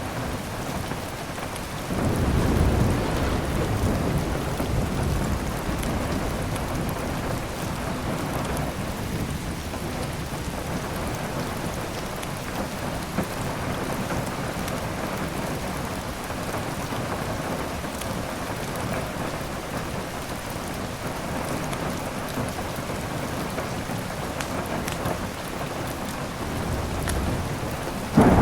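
Steady heavy rain with a long roll of thunder that swells about two seconds in and slowly fades; near the end a sharper, louder thunderclap breaks.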